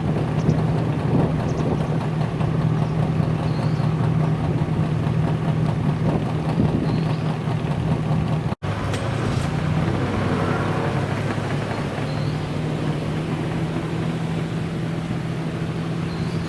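Classic car engines running steadily. About eight and a half seconds in the sound cuts off abruptly and switches to another engine with a deeper steady note.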